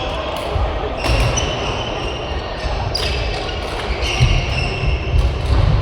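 Badminton doubles play on court: a few sharp racket hits on the shuttlecock, short high squeaks of shoes on the court floor, and dull thuds of footwork.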